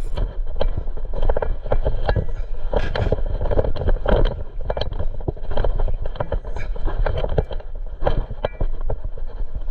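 Noise aboard a small fishing boat at sea: a steady low rumble with many irregular knocks and scrapes.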